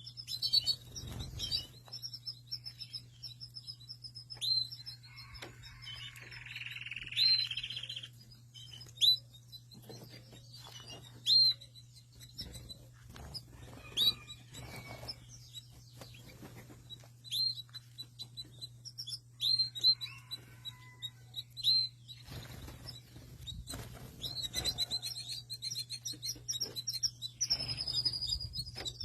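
Red domestic canary chirping with many short, sharp calls, with a few quick trills near the start and again near the end.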